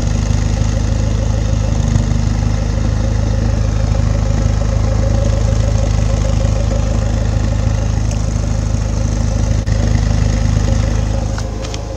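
Car petrol engine running steadily, easing off a little near the end. The engine, which had been running rich and popping, is now taking throttle normally.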